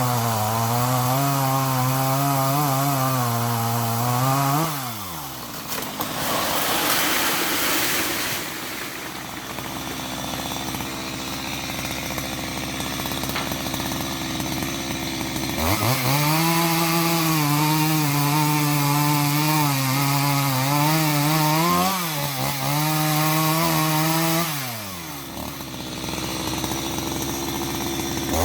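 A power tool motor running with a wavering pitch, winding down about four seconds in. A rough noise follows, then the motor starts up again a little past halfway, dips once and winds down again near the end.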